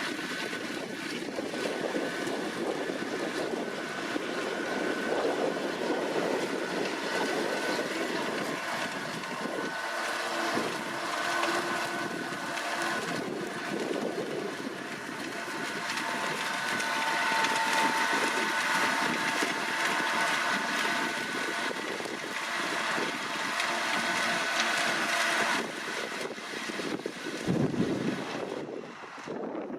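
New Holland T7.290 tractor running steadily under load while driving a KUHN tedder, a continuous drone with a faint steady whine over it. Wind buffets the microphone briefly near the end.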